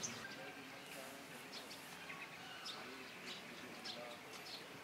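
Birds chirping faintly: short, scattered high-pitched chirps over quiet background noise.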